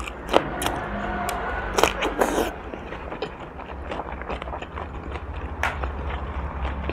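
Close-miked biting and chewing of crisp fresh cucumber, with sharp crunches about half a second in, twice around two seconds and once more past five and a half seconds, and wet chewing between them.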